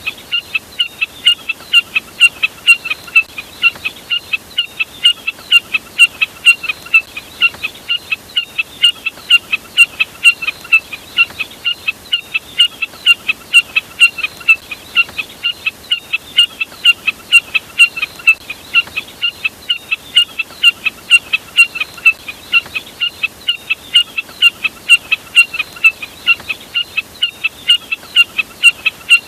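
Jack snipe (burcet) calling: a steady, unbroken run of short sharp calls at about three a second, played as a lure recording.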